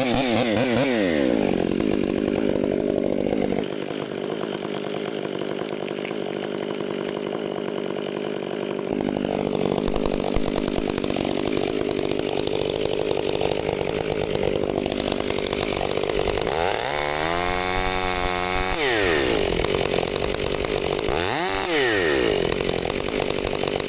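Gasoline chainsaw running at high revs under load, cutting wood. In the second half the engine pitch drops and climbs back several times as the throttle is eased off and opened again.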